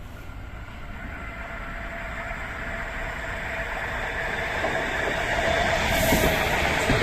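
A train approaching and growing steadily louder, with a steady whine building toward the end as it draws close.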